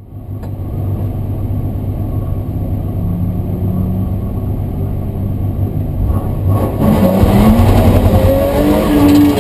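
BMW M3 rally car engine heard from inside the cabin, running steadily while the car waits at the start. About six and a half seconds in the car launches and the engine accelerates hard with rising revs.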